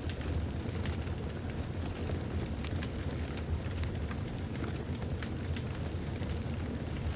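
Wood fire burning in a fireplace: a steady low rumble of flames with sharp crackles and pops scattered through it.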